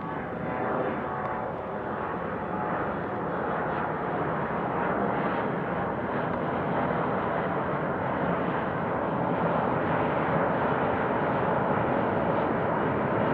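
Departing jet airliner's engines at takeoff power: a steady, even roar that grows gradually louder.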